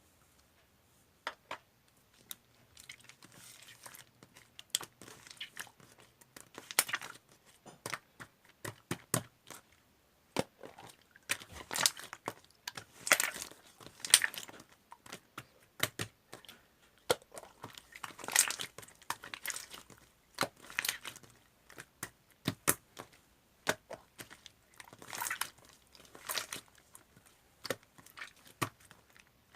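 Slime being squeezed, poked and stretched by hand, with irregular sticky pops, clicks and crackles.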